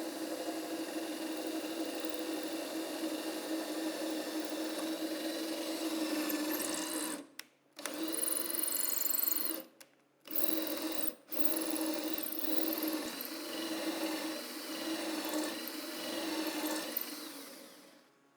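Electric drill running steadily, stopping briefly three times a little past the middle, then winding down near the end, typical of screws being driven to fix a table top.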